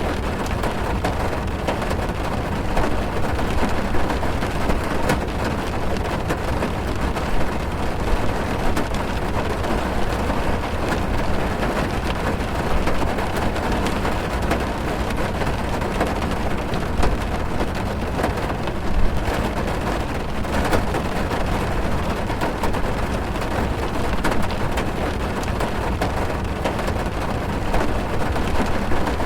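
Heavy rain falling on a car's roof and windows, heard from inside the car: a steady, dense patter of drops over a deep low noise.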